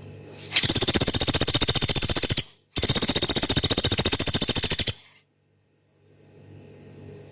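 Small woodpecker known as pelatuk beras giving two long, fast, coarse rattling trills of high-pitched notes, back to back, each about two seconds long.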